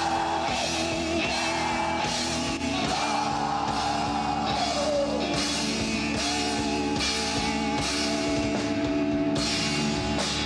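An emo rock band playing live: electric guitars and a drum kit with steady cymbal hits, and a voice singing long held, gliding notes over them.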